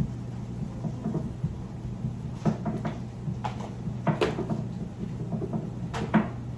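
Kitchen clatter: several sharp knocks and clacks, the loudest about four seconds and six seconds in, over a steady low hum.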